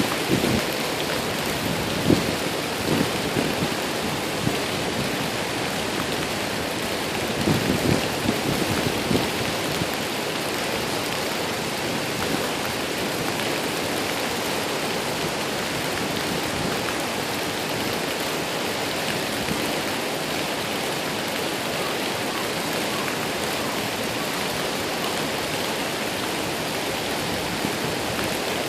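Waterfall pouring steadily: an even rush of falling water, with a few brief low bumps in the first nine seconds.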